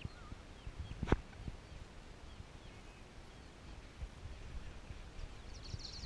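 Faint, short high bird chirps scattered throughout, over a steady low rumble. A few sharp knocks come through, the loudest about a second in. Near the end there is a brief, fast high trill.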